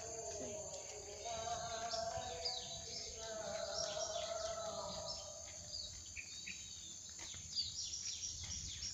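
Many forest birds chirping and calling, short high calls coming one after another throughout, over low handling and walking noise.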